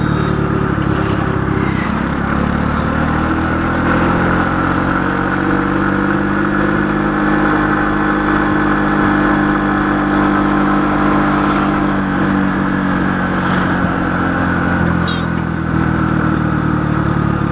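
Vehicle engine running steadily, its pitch climbing a few seconds in, holding, and easing back down near the end as the revs change.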